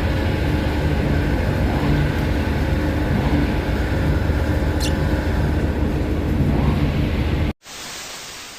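Steady low drone and hum of a ferry's engines, heard on board, cutting off abruptly near the end.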